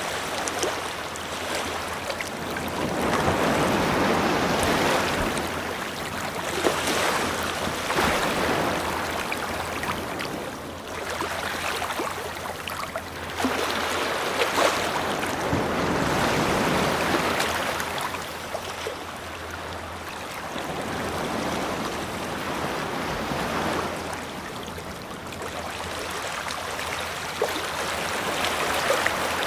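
Ocean waves breaking and washing up the shore, the surf swelling and fading in repeated surges every few seconds.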